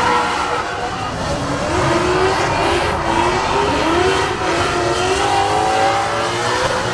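Loud car engines running and revving, their pitch rising and falling repeatedly over a dense mechanical noise.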